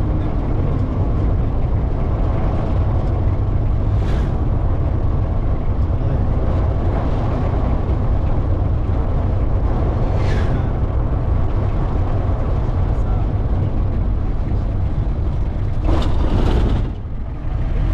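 Steady low rumble of a moving road vehicle, with brief hissing sweeps about 4 and 10 seconds in and a longer one near the end.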